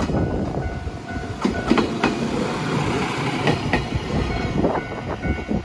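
Amagi Railway railbus, a single-car diesel railcar, running past close by, its wheels clacking over the rail joints as it goes.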